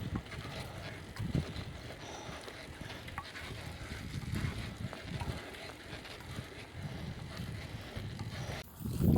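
Wind rumbling on the microphone, steady, with scattered faint clicks and rattles; it stops abruptly near the end.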